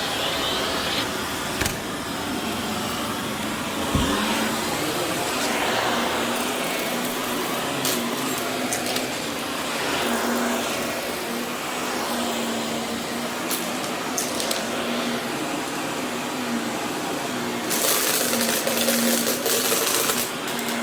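Vacuum cleaner running over berber carpet, a steady motor hum and airflow hiss, with scattered crunchy clicks as accumulated debris is sucked up. The hiss grows louder and brighter for a couple of seconds near the end.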